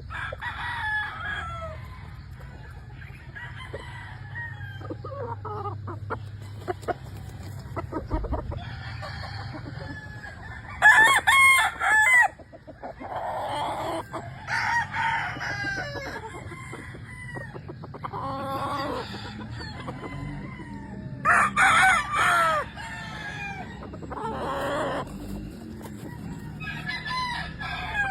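Gamefowl roosters crowing repeatedly, several birds answering one another, with hens and cocks clucking between the crows. The loudest crows come about 11 seconds in and again about 21 seconds in.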